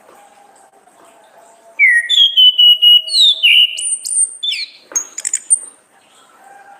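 Orange-headed thrush singing one loud phrase of clear, sliding whistled notes, starting about two seconds in and ending a few seconds later in a quick run of clipped notes.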